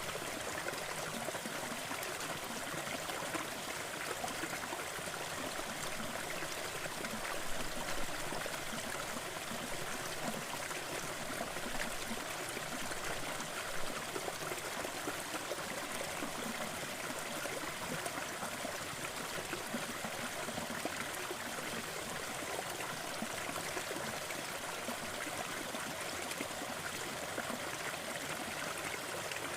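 A crackling fire over a steady rushing noise bed, with fine crackles throughout and a few louder pops, two about seven to eight seconds in and one near fourteen seconds.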